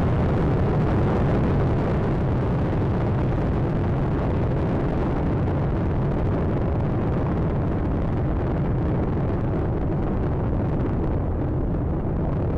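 Space Shuttle Atlantis climbing out after liftoff: the steady, loud rumble of its two solid rocket boosters and three main engines. The upper hiss thins somewhat in the last couple of seconds.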